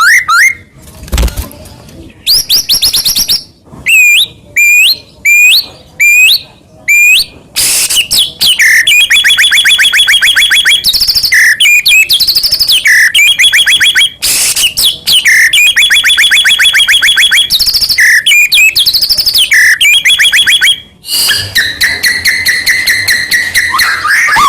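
White-rumped shama (murai batu) singing loudly: first a run of short, separate whistled phrases about half a second apart, then long rapid trills and varied phrases broken by brief pauses.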